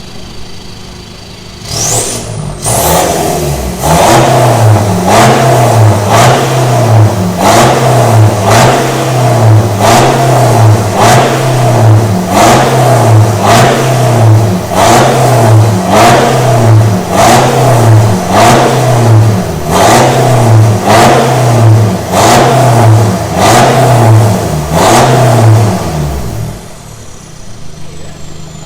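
BMW F30 320d's four-cylinder turbodiesel revved in quick repeated throttle blips, about one a second, through a freshly fitted 2.5-inch stainless straight-through exhaust with a custom downpipe. It settles back to idle near the end.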